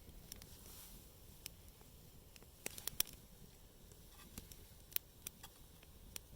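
Campfire wood crackling: irregular sharp pops over a faint low rumble, with a quick cluster of the loudest pops about three seconds in.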